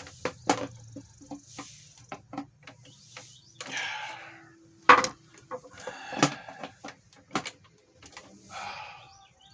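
Plastic carrying handle being forced into the slot of a box fan's plastic housing: a string of sharp clicks and knocks with a few short scraping, creaking stretches, the loudest knock about halfway through.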